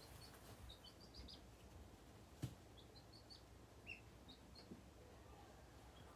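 Baby chicks and ducklings in a brooder peeping faintly: scattered short, high peeps, with a single sharp click about halfway through.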